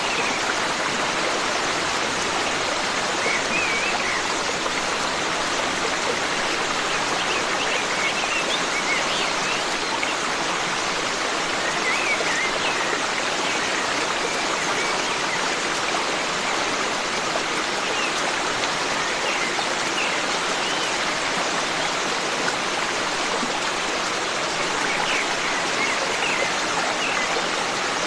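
Forest stream running steadily over rocks, with faint bird chirps now and then.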